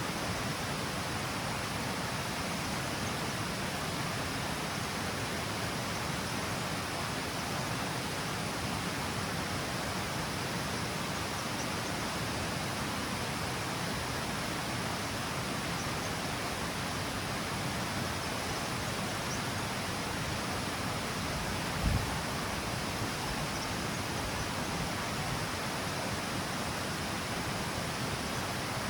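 Water pouring down the stepped cascade of a river, a steady rushing noise that does not change. A single brief low thump stands out late on.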